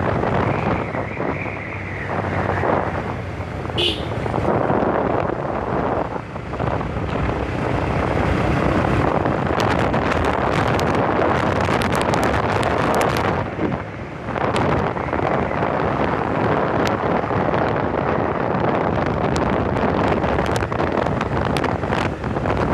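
Wind rushing over the microphone on a moving motorbike, mixed with road and traffic noise, with a few brief dips in level.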